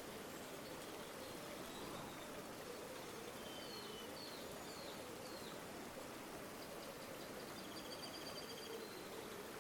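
A river flowing steadily with a low burbling rush. A small bird gives a few short chirps about four seconds in and a rapid high trill near the end.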